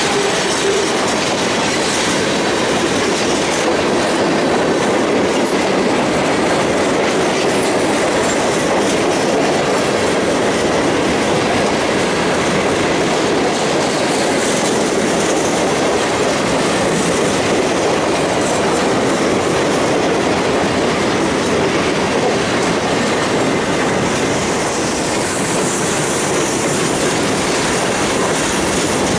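Freight cars rolling past at close range: tank cars, covered hoppers and boxcars, their steel wheels giving a steady, loud rumble and clatter on the rails.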